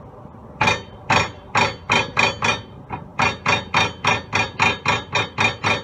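Repeated sharp metallic knocks at a GMC Envoy's rear sway bar end link, which has play and clunks. There are a few spaced knocks, a short pause, then a steady run of about four a second.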